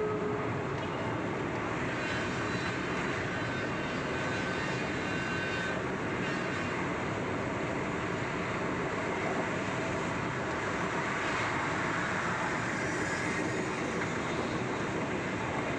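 Train running steadily along the track, a constant rumble and rush of noise, with a faint whine for a few seconds near the start.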